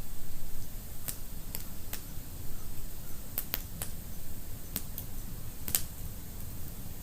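Wood fire in a fireplace crackling: sharp, irregular pops, several close together in the middle, over a low rumble of burning.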